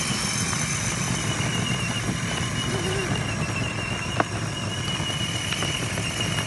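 Child's ride-on toy motorcycle running steadily, a low hum under a thin, steady high whine, with one sharp click about four seconds in.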